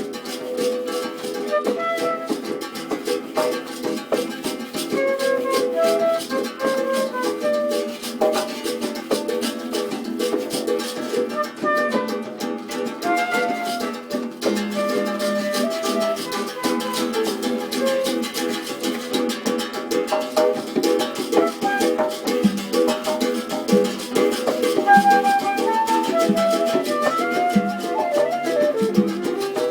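Live acoustic music on plucked string instruments: steady, fast strumming of guitar-like instruments under a picked melody line.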